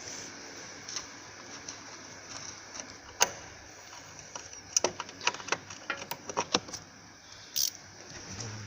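Metal clicks and taps of hand tools working on the bolts of a car's front upper suspension arms: one sharp click about three seconds in, then a run of irregular clicks, about three or four a second, later on, and a short scrape near the end.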